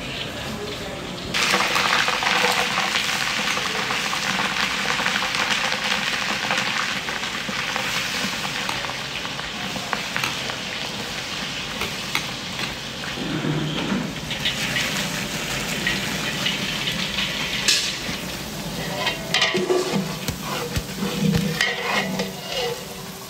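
Food frying in hot oil in a large metal cooking pot. A loud, steady sizzle starts suddenly a little over a second in, as chopped onions go into the oil, and carries on through. A long-handled metal spatula scrapes and knocks against the pot as it stirs, most often near the end, when chopped vegetables are being turned.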